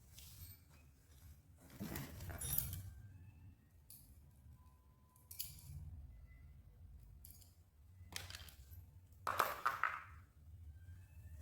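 Metal tools and engine parts clinking and clattering during hand work on an engine, with louder clatters about two seconds in and again near the end.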